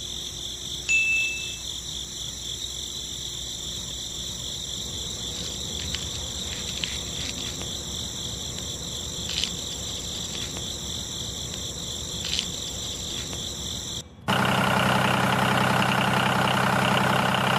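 Small electric motor running with a steady high-pitched whine and a few faint clicks. About 14 s in it cuts off abruptly and a louder, lower-pitched steady motor hum takes over.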